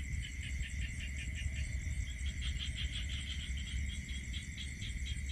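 Night insects chirping in quick, even pulses over a steady high-pitched drone, with a low steady rumble underneath.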